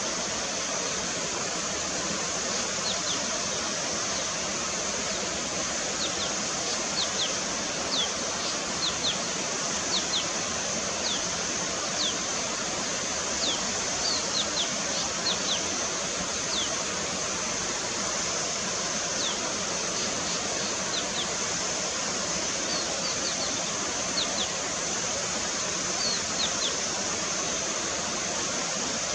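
Small songbirds calling with short, thin, high notes that slide downward, singly or in quick runs of two to four, over the steady rush of flowing water.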